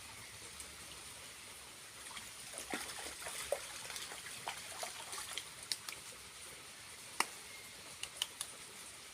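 Small waterfall with a thin flow, trickling with a steady hiss. Scattered sharp ticks and drips come through it for most of the middle part.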